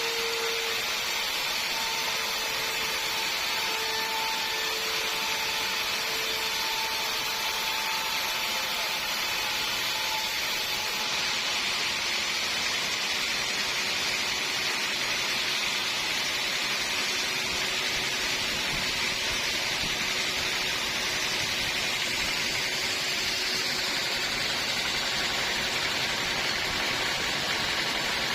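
Band sawmill running steadily, a constant even hiss with a faint wavering hum that shifts lower about eleven seconds in.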